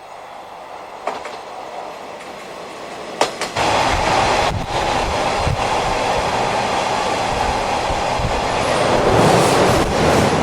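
A train growing louder, then running loud from about three and a half seconds in, its wheels clacking over rail joints.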